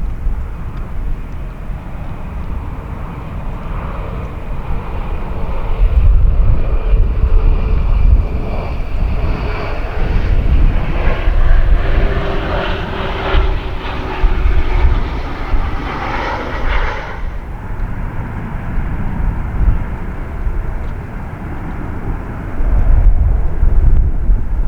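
Jet airliner engines passing close, the roar and engine whine building over several seconds, at their loudest for a stretch, then falling away quite suddenly, over a steady low rumble.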